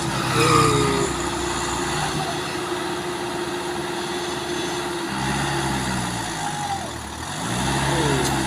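A heavy truck's diesel engine running steadily at first, then revving up and down from about halfway through.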